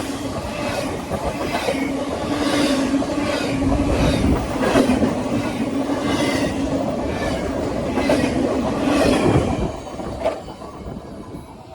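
Double-stack container train cars rolling past, their wheels clacking over rail joints in a regular rhythm of about one clack a second over a steady rolling hum. The sound drops away about ten seconds in.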